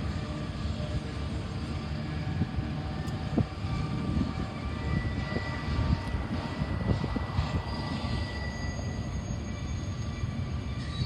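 Diesel-hauled freight train passing, a steady low rumble of locomotives and rolling cars. A thin steady squeal comes in about five seconds in.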